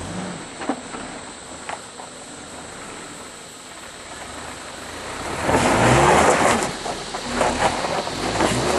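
Suzuki Jimny 4x4 engine, quiet at first with a couple of short clicks, then revving up about five and a half seconds in together with a loud rush of noise.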